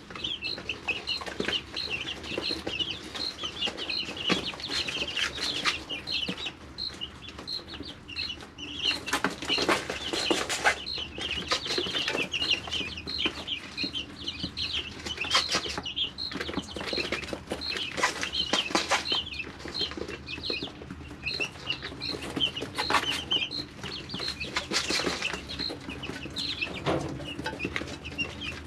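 Three-week-old chicks peeping steadily in a brooder, with several bursts of scuffling and wing-flapping noise from the chicks moving about.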